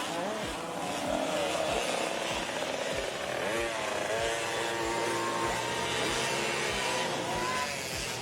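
Small 50cc motocross bikes racing: their high, buzzing engines rise and fall in pitch as the riders work the throttle, with more than one bike heard at once.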